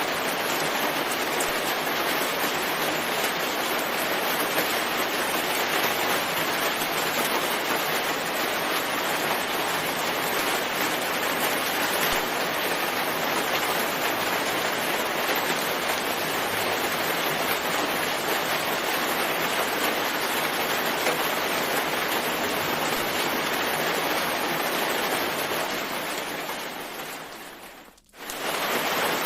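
Steady, dense rain hiss with no single drops standing out. About two seconds before the end it fades away to near silence for a moment, then comes straight back at full level, like the seam where a looped rain track restarts.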